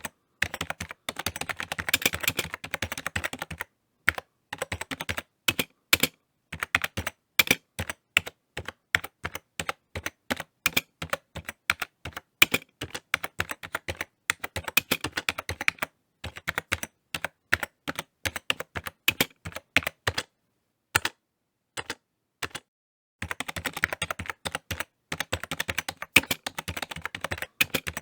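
Typing on a computer keyboard: fast runs of key clicks at the start and again near the end, slower separate keystrokes in between, with a few short pauses.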